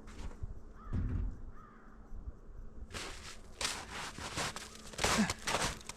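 Boots crunching through deep snow, a quick run of steps two or three a second starting about halfway. A low thump about a second in.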